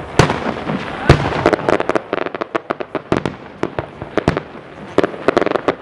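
Fireworks bursting in quick succession: a dense run of sharp bangs and crackling pops, with the loudest reports just after the start and about a second in.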